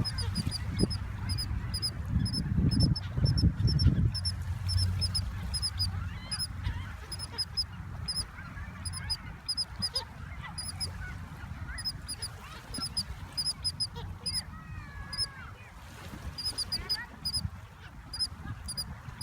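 Three small birds calling and squabbling, with short wavering calls. A low rumble is loudest in the first few seconds, and a faint, regular high double tick repeats about twice a second throughout.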